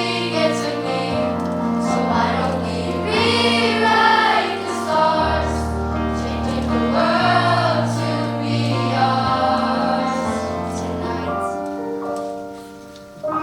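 Middle school choir singing with musical accompaniment, over long held bass notes that change every couple of seconds. The music dies away near the end.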